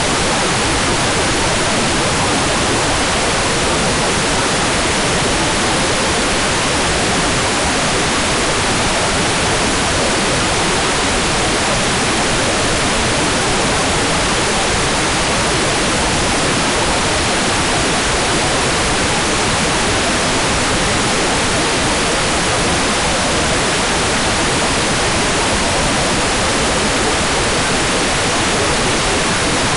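Hair dryer running steadily: an even, unbroken rush of blowing air that never changes.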